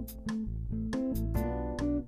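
Background music: plucked guitar notes over a steady bass line, with about four note strokes a second.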